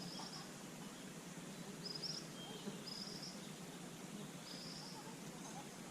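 Outdoor ambience: a steady low hiss with a short, high chirp repeated about every one to two seconds.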